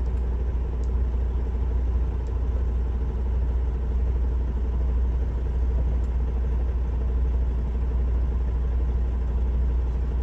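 Semi-truck's Cummins diesel engine running, a steady low drone.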